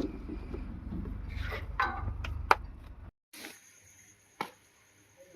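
Heavy diesel machinery running with a steady low rumble, with a sharp knock about two and a half seconds in. Just after three seconds the sound cuts off abruptly, leaving a much quieter stretch with a single click.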